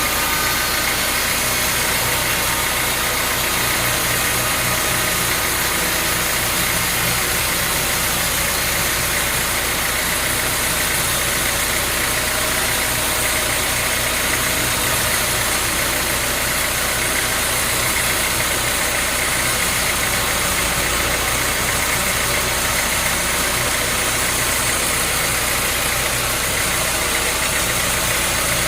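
Sawmill machinery running steadily: an engine or motor hum under a dense, even mechanical noise, with no change in level.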